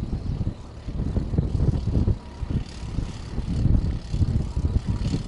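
Strong wind buffeting the microphone: an irregular low rumble that rises and falls in gusts.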